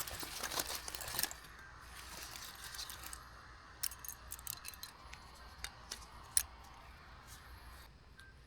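Rustling for about a second, then a string of light clicks and taps of small objects being handled, with one sharper tap about six seconds in.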